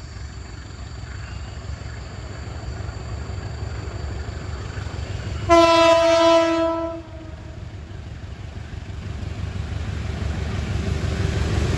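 Diesel locomotive horn sounding one blast of about a second and a half, over a low rumble that grows steadily louder as the train approaches.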